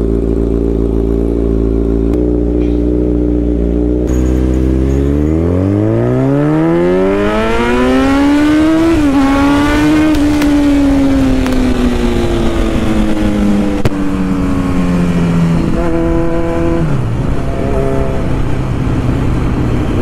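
Kawasaki Z900's inline-four engine breathing through an Akrapovic titanium full-system exhaust, running steadily at low revs and then accelerating hard. The pitch climbs for about four seconds with a brief dip at a gear change, then falls slowly as the throttle eases off, with a quick drop near the end.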